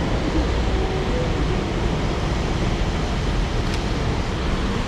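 Steady hiss of heavy rain mixed with city street traffic, with a low rumble underneath and a faint click near the end.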